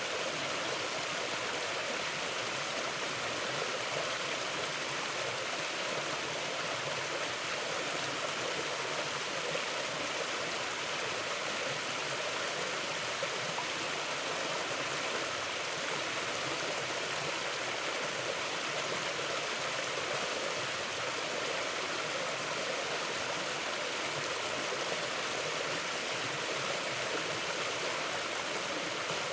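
Mountain river flowing steadily, a constant even rush of water with no breaks.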